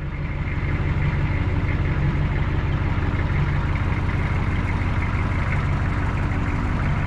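A vehicle engine idling steadily at an even low pitch.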